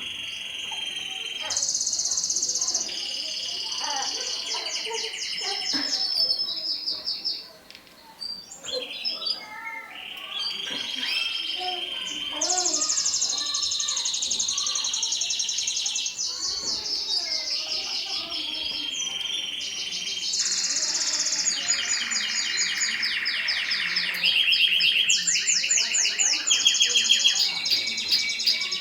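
Mosaic canary singing: a long song of rapid trilled phrases, each held for a second or two before switching to another pitch, with a short break about eight seconds in.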